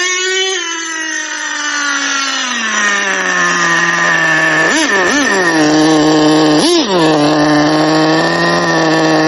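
Modified TRX 2.5 nitro engine of a Traxxas Jato RC truck idling, its speed settling lower over the first three seconds, then blipped in three quick revs about halfway through before idling steadily again. The owner judges it still running lean.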